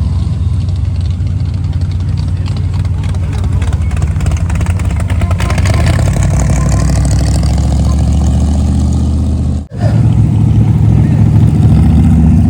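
Engines of classic cars running at low speed in a slow parade, a deep, steady rumble of exhaust. The sound drops out for an instant just before ten seconds in, and a different engine note carries on after it.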